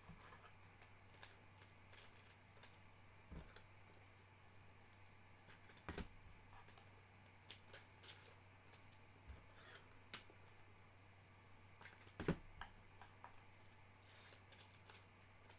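Faint, scattered clicks, taps and rustles of sports card boxes and wrappers being handled, louder near the middle and again near the end, over a steady low hum.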